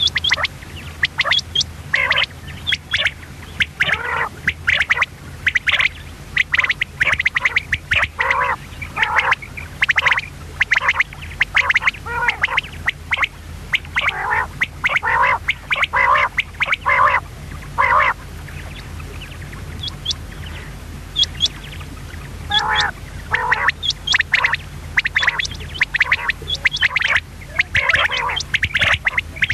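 Common quail calling: many short, harsh calls in quick succession, easing off for a couple of seconds about two-thirds through before resuming. A steady low hum runs underneath.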